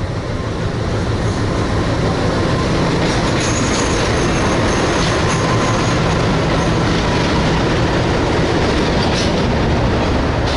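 Passenger train hauled by a locomotive pulling into the station and passing close by: the loud, steady rumble of the engine and wheels on the rails, with a thin metallic squeal from the wheels a few seconds in.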